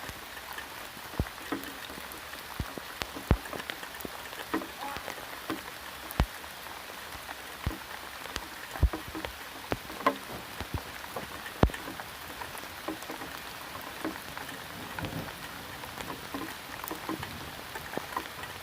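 Steady rain falling, with individual drops landing close by as sharp, irregular taps, several of them louder than the rest.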